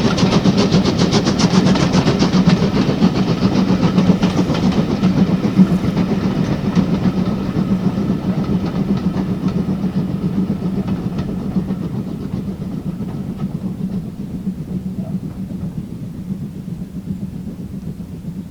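Steam-hauled train running past on the line, with rapid regular clicks of wheels over the rail joints, fading steadily as it draws away.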